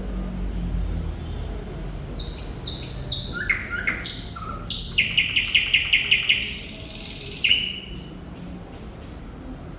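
Thrush nightingale singing one song phrase. A few separate short notes build into a fast run of loud repeated notes and a buzzy high stretch, ending on a single note about eight seconds in.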